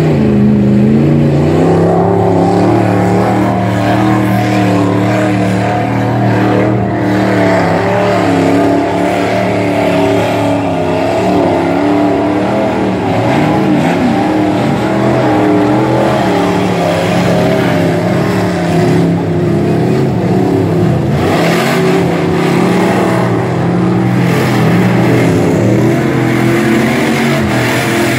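Ford pickup truck's engine running loud under load in mud, its pitch rising and falling as the throttle is worked.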